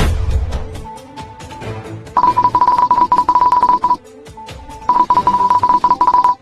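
Background music with two bursts of a fast-trilling electronic ring at one steady high pitch, each about two seconds long, in the manner of a phone ringtone.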